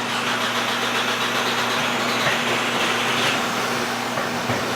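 2010 Volkswagen Jetta's 2.0 L turbocharged four-cylinder TSI engine running steadily just after catching from a long crank, idling rough with a cylinder 1 misfire: the engine computer has cut that cylinder's injector.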